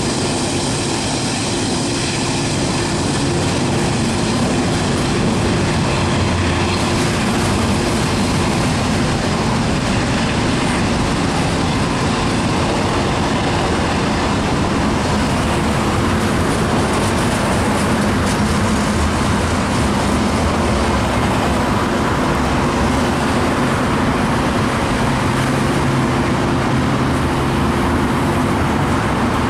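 CN double-stack intermodal freight train rolling past: steady, unbroken wheel-on-rail noise from its container-laden well cars.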